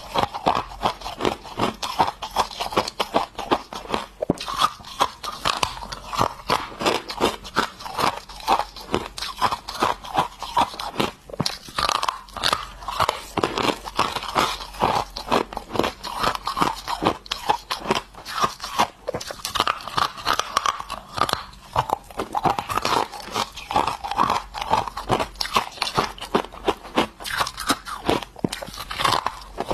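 A person biting and chewing ice sticks, a steady run of crisp crunches, several a second.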